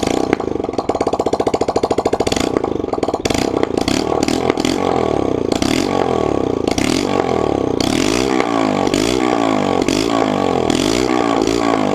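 Yamaha YBR125's single-cylinder four-stroke engine running through its exhaust. It pulses evenly at first, then from about five seconds in the throttle is blipped repeatedly, the pitch rising and falling about once a second.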